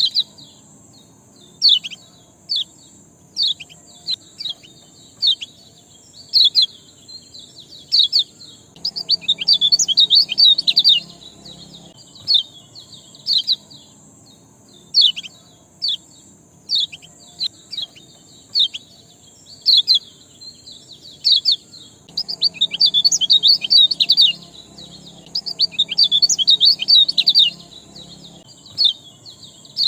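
Songbird playing as a lure recording to get a quiet bird to sing: single sharp chirps every second or two, broken by two longer rapid chattering song runs, about nine seconds in and again about twenty-two seconds in. A faint steady high hiss runs underneath.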